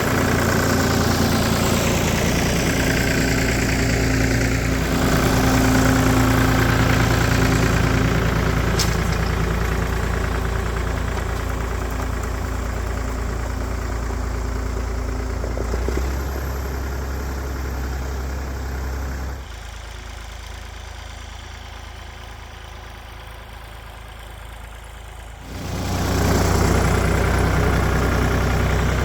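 Tractor engine running steadily. About two-thirds of the way through it drops much quieter for around six seconds, then comes back at full level.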